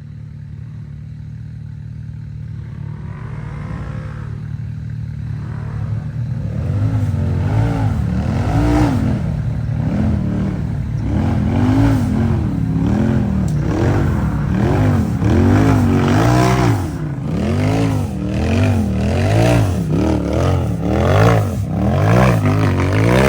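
Side-by-side UTV engine revving up and falling back in repeated throttle blips, about once a second, over a steady low engine drone. The revving grows louder over the first several seconds.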